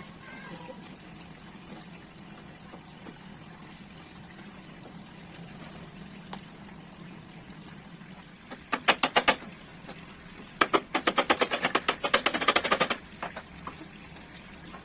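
Two bursts of rapid clicking clatter, about ten clicks a second. The first is short; the second, about two seconds long, starts around a second and a half after it. A steady background hum runs underneath.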